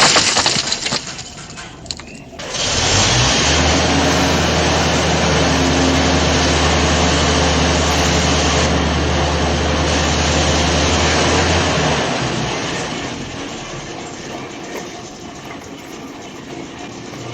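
An engine starts about two and a half seconds in and runs steadily with a low hum, then fades out over the last few seconds. It follows the dying tail of a loud crash at the start.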